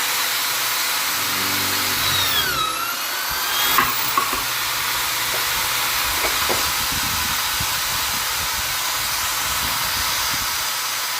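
Vonder drill/driver motor running steadily with a hissing whine; about two and a half seconds in its pitch drops, then climbs back.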